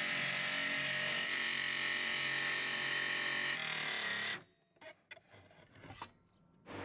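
An electric power tool running steadily with a high whine, cutting off abruptly about four seconds in, followed by a few faint knocks.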